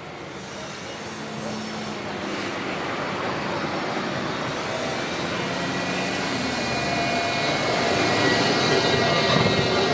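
A Zurich tram approaching, its running noise growing steadily louder, with faint high whining tones coming in over the last few seconds.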